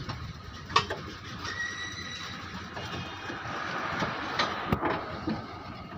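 A car moving over a rough road, with a steady rattling rumble and a few sharp knocks from the front suspension, one about a second in and two close together near the end. This is the suspension noise that the video puts down to a worn lower-arm ball joint.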